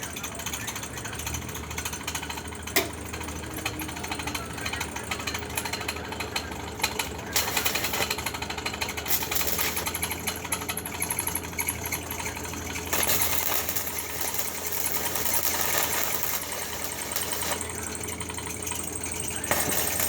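Electric arc welding on foundation bolts: a continuous crackling sizzle over a steady low hum. The crackle grows louder about seven seconds in and again around thirteen seconds, then eases near the end.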